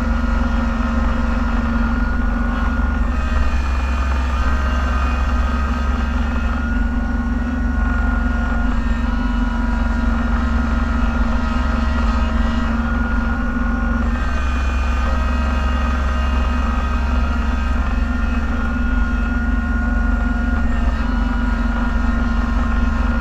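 Snow-plow vehicle's engine running steadily under load, heard from inside the cab as a continuous low drone with a faint whine above it.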